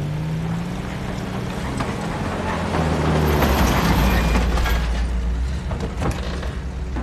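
Motor vehicle engine rumbling, swelling to its loudest about halfway through and then easing off, as if passing by.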